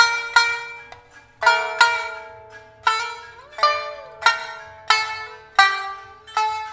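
Shamisen played solo at a slow, unhurried pace: single plucked notes with a sharp attack that ring and die away, about one every half second, with one note sliding in pitch about halfway through.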